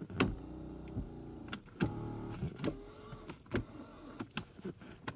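Jaguar X-Type electric power seat motors running, stopping and starting as the seat travels on its newly fitted motor and track assembly, with sharp clicks between runs. The seat is working again after the track replacement.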